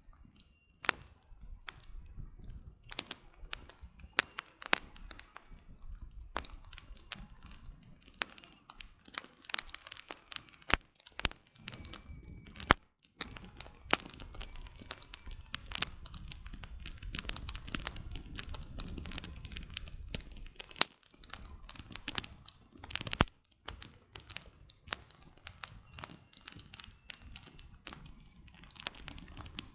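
Wood campfire burning, its logs crackling and popping irregularly over a low rush of flame.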